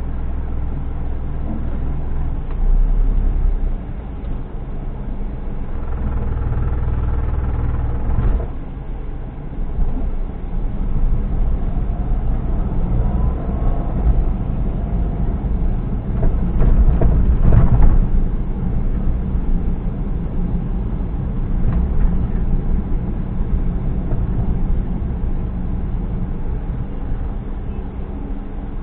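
Motor vehicle engine and road noise during driving: a steady low rumble whose pitch shifts several times, louder for a moment about 17 seconds in.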